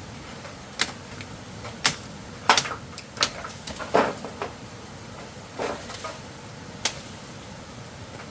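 A series of irregular sharp knocks and clatters, about eight spread over several seconds, over a steady background hiss.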